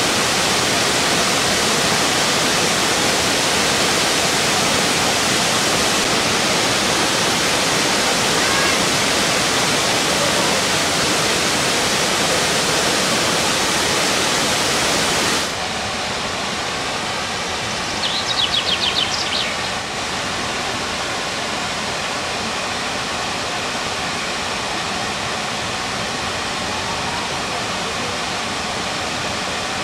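Dzhuryn waterfall: falling water rushing in a steady, even noise. About halfway through it drops a little in level and sounds duller, and a few seconds later a short, fast, high rattle sounds briefly over it.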